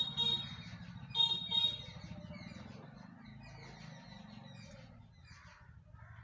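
Horn-like beeping in rapid pulses that stops just after the start, then a second short burst about a second in, over a low steady rumble.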